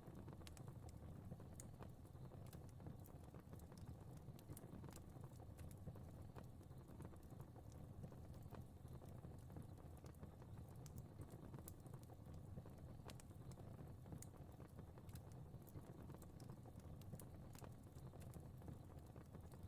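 Faint crackling fire: irregular soft pops and snaps scattered over a steady low rumble.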